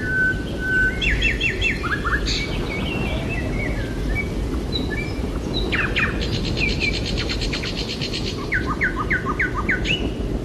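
Several songbirds calling over a steady low background noise: quick repeated chirps in short series, a held whistled note at the start, and a fast rattling trill in the middle.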